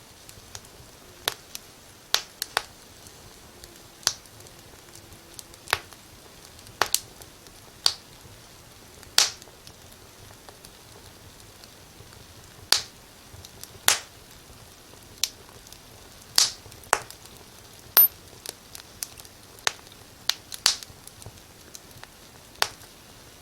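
Wood fire crackling in a fireplace: sharp, irregular pops and snaps, roughly one a second and unevenly spaced, over a soft steady hiss.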